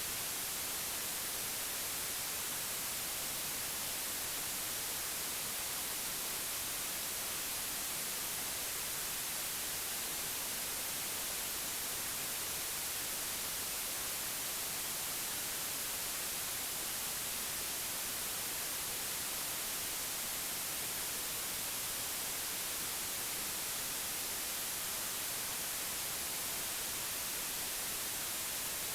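Steady white noise: an even hiss that does not change, brightest in the high frequencies.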